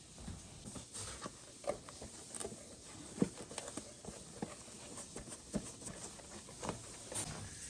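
Cleaning an instrument cluster's gauge glass by hand: quiet rubbing with irregular small clicks and taps.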